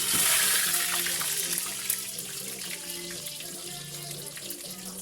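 Water running from a kitchen tap, loudest in the first second or so and then running on more softly, with a few small knocks.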